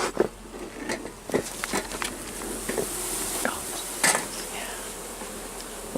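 Honeybees buzzing around an opened hive, with a series of sharp cracks and knocks as a hive box stuck down with propolis is worked loose.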